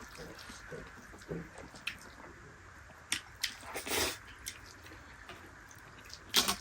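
Wet eating sounds during a dal bhat meal: a scatter of soft smacks, clicks and squishes, one longer one about four seconds in and a louder one near the end.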